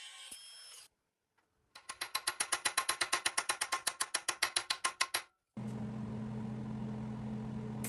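Rapid ratchet-like clicking, about ten clicks a second for some three seconds. After a short gap comes the steady hum of a small electric motor running.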